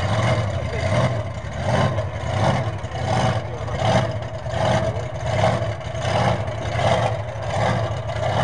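Bigfoot monster truck's engine running over a steady low drone, its sound swelling and falling in even surges a little more than once a second.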